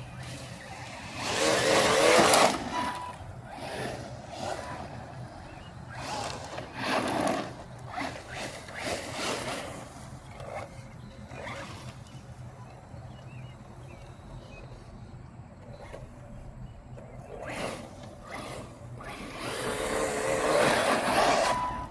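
Mojave 4S RC truck driving, its electric motor whining and its tyres churning dirt, loudest in two passes, about two seconds in and again near the end, with quieter bursts between.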